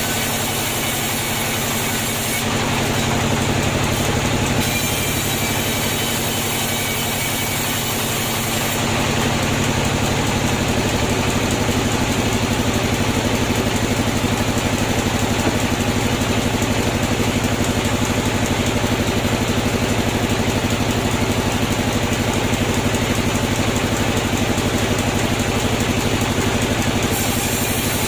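Sawmill machinery running with a steady motor hum and a loud, even whirring. It grows louder from about nine seconds in and eases back shortly before the end.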